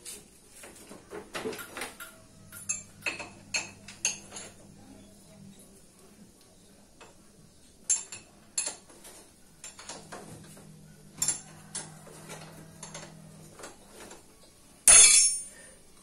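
Hand tools and metal parts clinking and tapping against each other in irregular single knocks, with a louder metallic clatter near the end. A faint low hum comes and goes twice.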